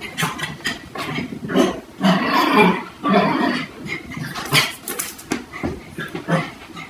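A dog making a rapid, irregular string of short, rough vocal sounds.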